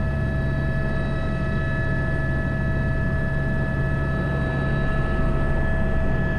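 Airbus H125 helicopter's turbine engine and rotor running steadily in flight: a steady multi-tone whine over a low drone.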